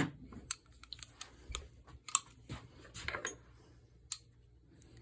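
Small metal spray-gun parts and tools being handled on a workbench: a series of irregular sharp clicks and clinks, with softer handling noise between them.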